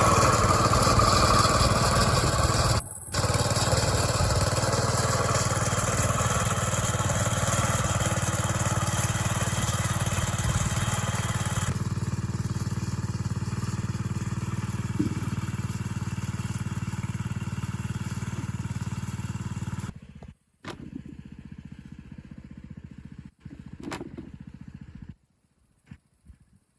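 An engine running steadily and loudly. It cuts off abruptly about twenty seconds in, and fainter, broken noise follows.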